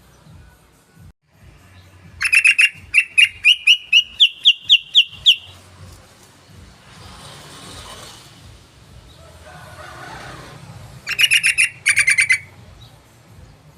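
Sooty-headed bulbul (trucukan) song: a quick run of about a dozen clear notes climbing in pitch, then a second, shorter burst of notes near the end.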